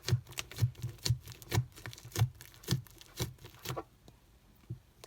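Apple gum slime being squeezed and pressed by hand, making sticky clicking pops about twice a second. The pops stop about four seconds in.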